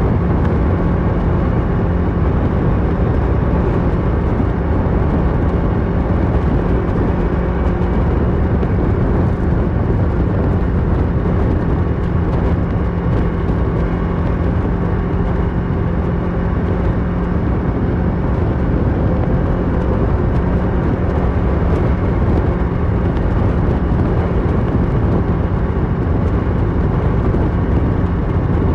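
Kawasaki Versys 650 parallel-twin engine through a Mivv slip-on exhaust, running at a steady cruise with an unchanging pitch, over a constant rush of wind noise.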